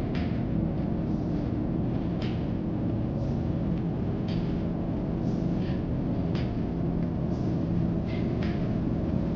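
Steady, even drone of an airliner's engines, low and unchanging, with faint light clicks about once a second.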